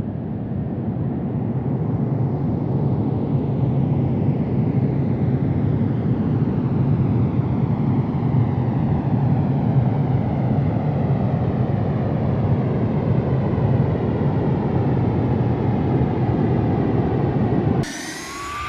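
Jet airliner's engines running at high power, a loud, steady, deep rumble as the aircraft passes. Near the end it cuts abruptly to another jet whose engine whine rises in pitch.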